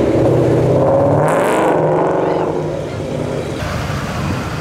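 Ford Mustang GT's V8 accelerating away, its engine note rising in pitch over the first second and a half, then easing off and fading a little.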